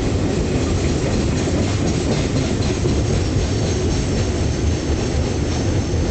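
Freight train wagons rolling past on the track: a steady, loud rumble with the clatter of steel wheels on the rails.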